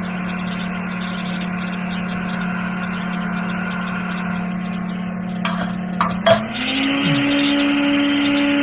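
Hot air rework station's fan running with a steady hum and rush of air. A few sharp clicks come about five and a half to six and a half seconds in, and then the hum slides up in pitch and the air gets louder as the fan speeds up.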